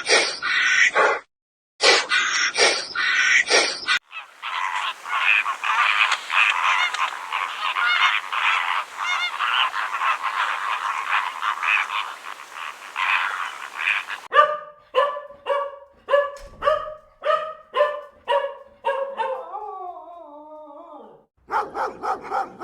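A succession of different animal calls: short repeated calls, then a dense chorus of many overlapping calls for about ten seconds, then a run of evenly spaced pitched calls, the last few sliding down in pitch.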